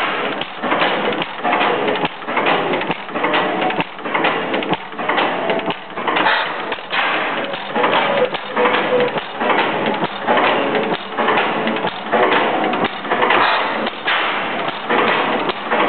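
1910 Kratky 8 hp stationary engine with low-tension ignition running, a steady, even rhythm of repeated mechanical beats and clatter.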